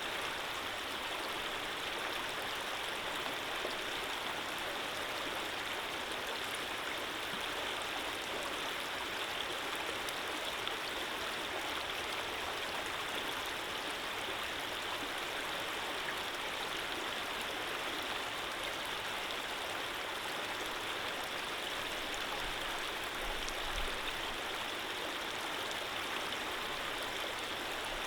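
Running water flowing steadily, an even rushing with no breaks or pauses.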